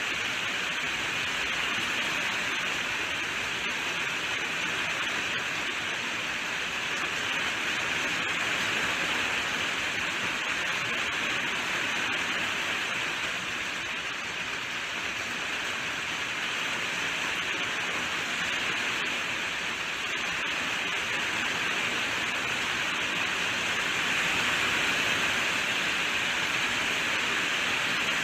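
Steady heavy rainfall, an even hiss of falling drops without distinct patters or thunder.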